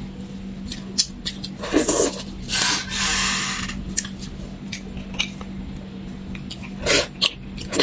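Close-miked mouth sounds of eating beef bone marrow: scattered wet clicks and smacks, and a long slurp about two and a half seconds in. A steady low hum runs underneath.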